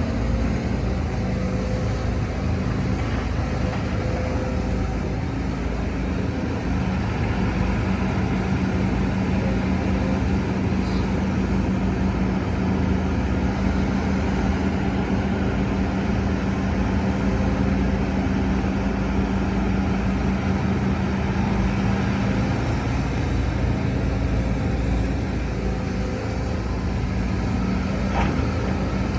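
Heavy diesel earthmoving machinery running steadily. A strong steady hum sits over the engine noise from about a quarter of the way in until about three quarters through.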